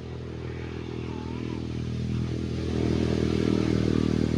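An engine running steadily and drawing nearer, its hum getting louder over the first three seconds.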